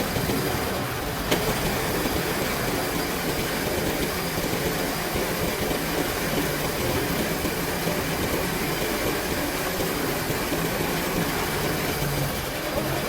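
A heavy vehicle's engine running steadily, with a continuous rumbling mechanical noise.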